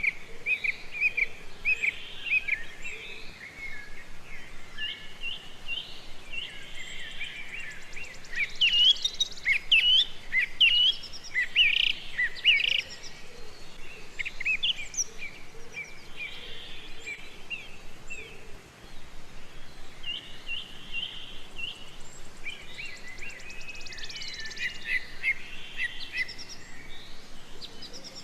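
Several wild birds chirping and calling, a steady stream of short, quick high chirps that grows busier and louder for a few seconds near the middle.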